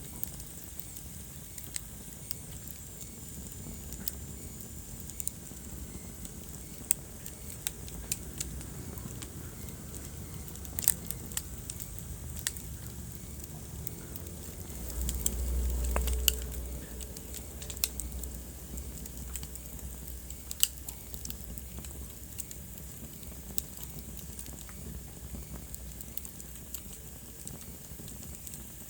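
Wood fire burning in a fireplace, crackling with scattered sharp pops over a low rumble. The rumble swells for a couple of seconds about halfway through.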